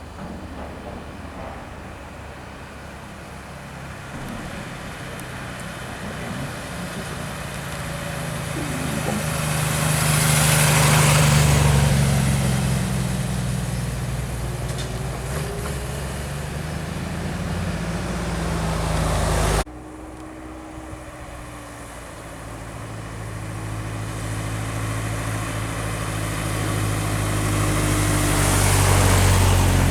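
Car engines passing by: a car's running grows louder to a peak about a third of the way in and fades away, then after an abrupt cut a second car approaches and is loudest near the end.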